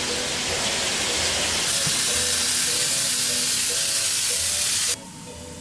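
Steam locomotive letting off steam: a loud, steady hiss that cuts off suddenly near the end.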